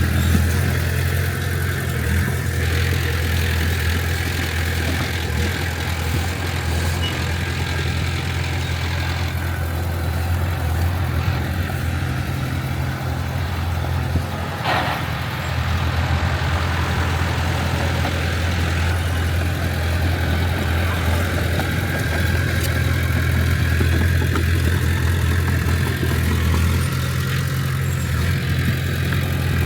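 Heavy earthmoving machine's diesel engine running steadily, a deep low hum, with a brief dip and a short sharp sound about halfway through.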